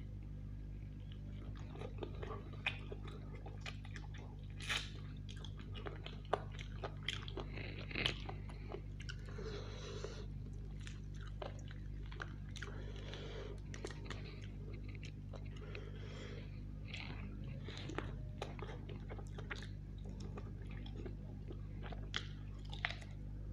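Close-up chewing and biting of roast chicken, with crunches and many short sharp clicks scattered throughout.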